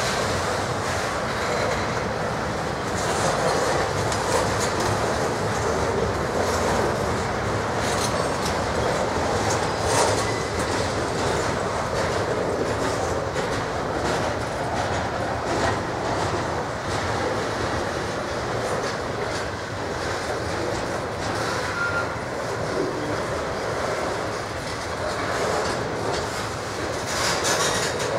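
Intermodal freight train's container well cars rolling past at trackside: a steady rumble and clatter of steel wheels on the rails, with scattered sharp clicks.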